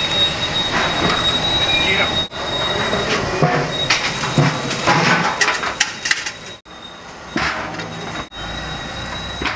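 Chopped garlic frying in hot oil in a large aluminium cooking pot, a continuous sizzle. Cumin and then chopped onions are tipped in, with voices in the background.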